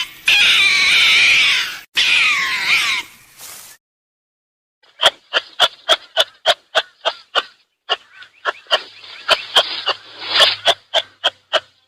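Animal calls. First comes a run of high, wavering cries. After a short pause there is a rapid series of short, clicking calls, about three a second.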